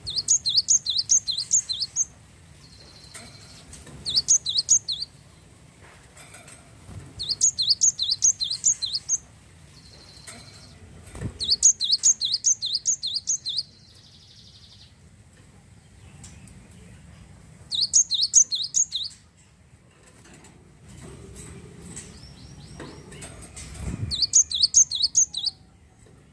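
Glatik wingko (cinereous tit) singing in six bursts of rapid, high, sharply falling notes, each lasting one to two seconds, with pauses between them.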